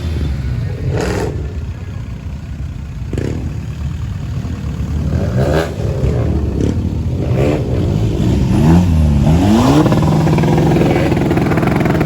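Car engines running at a car meet, with revving late on that rises and falls in pitch. Several sharp bangs are scattered through the first part.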